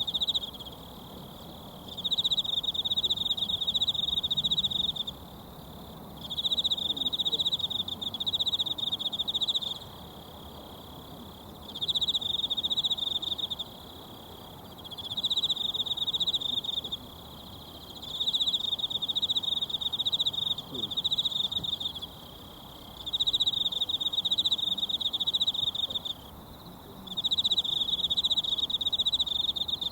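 An insect trilling loudly in repeated high, pulsing bursts of two to three seconds each, with short pauses between, over the faint steady rush of a mountain stream.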